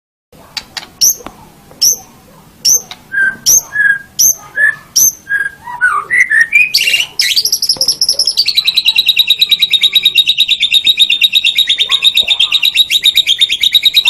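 White-rumped shama (murai batu) singing: a string of separate sharp whistled notes, then a quick rising run of notes leading into a long, very rapid trill held at one pitch.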